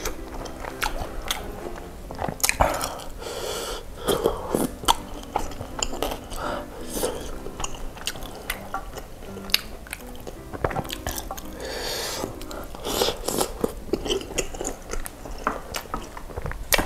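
Close-miked chewing and biting of chewy tapioca meatballs (baso aci) in spicy broth: a run of irregular mouth clicks and short noisy bursts.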